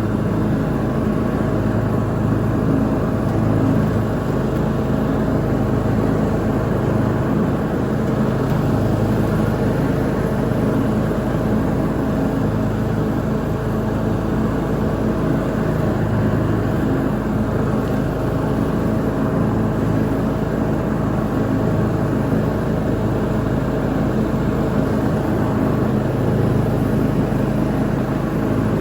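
Lawn mower engine running steadily under load while mowing, a constant drone with no change in pitch or level.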